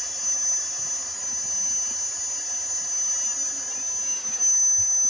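A steady hiss with a thin, high whistle running through it.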